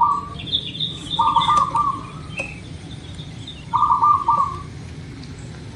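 Zebra dove (perkutut) cooing in short, rapid pulsed phrases: one ends just as the sound begins, a second comes about a second in, and a third about four seconds in. Fainter high chirps from small birds sound between the phrases.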